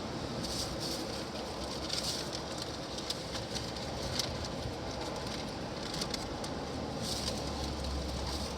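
Steady outdoor wind-and-rain noise in typhoon weather, with a light patter of drops and wind rumbling on the microphone, the rumble heavier near the end.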